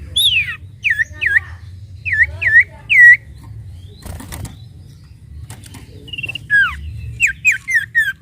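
A sirtu songbird whistling a series of clear notes, each sliding down in pitch. The notes come in a quick run at first and another toward the end, with a pause between. A short rustling noise comes about four seconds in, over a low steady hum.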